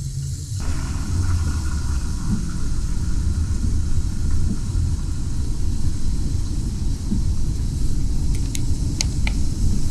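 Steady low rumble of a vehicle driving, with a few short sharp clicks near the end.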